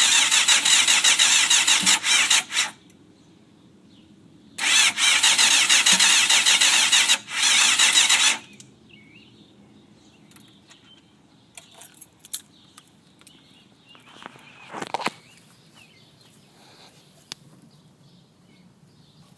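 1992 Yamaha FZR600's inline-four engine being cranked on its electric starter twice, turning over evenly without catching: a first crank of nearly three seconds, then a longer one of about four seconds, followed by a few faint clicks. It is a no-start that the owner suspects comes from fuel not getting through despite freshly cleaned carbs.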